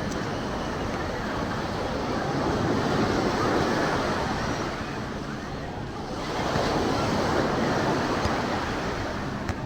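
Ocean surf breaking on the beach: a steady wash of waves that swells twice, once about three seconds in and again about six and a half seconds in.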